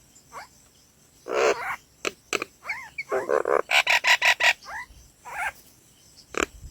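Birds calling: a series of short chirps, several falling in pitch, with a rapid run of repeated notes about four seconds in.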